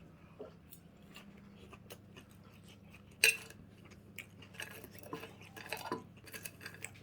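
Cutlery clinking and scraping on a plate while eating, in scattered light clicks with one sharper clink about three seconds in.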